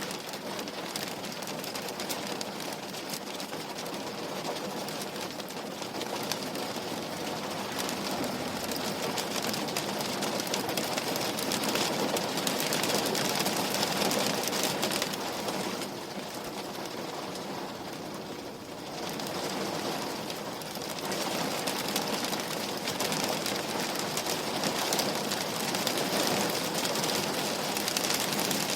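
Steady rain on a window pane: a dense hiss studded with countless small drop ticks, easing briefly a little past the middle before picking up again.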